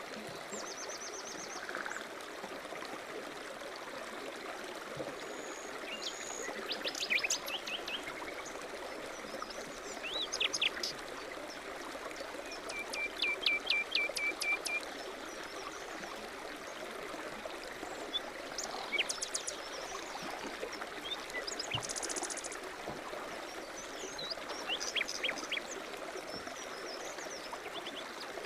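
A stream running steadily, with songbirds singing short phrases every few seconds over it, including a quick run of repeated notes about halfway through.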